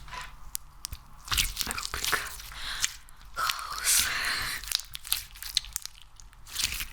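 Close-miked sticky clicking and crackling from a soft ASMR material being pressed and pulled by hand, denser and louder in the middle.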